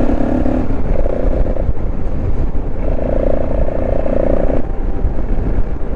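Motorcycle engine running under way, with heavy wind rumble on the microphone. The engine's steady note drops back and picks up again a couple of times as the throttle changes.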